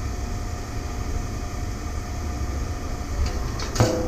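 Steady low machine-like rumble, with a short clatter about four seconds in.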